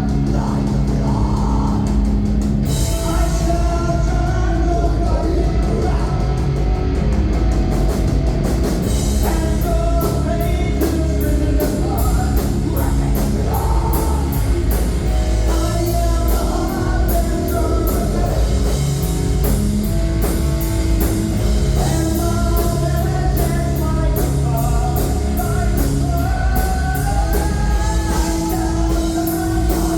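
A live heavy rock band playing loudly, with drums, guitars and a singer. Steady, evenly spaced cymbal strokes come in about nine seconds in.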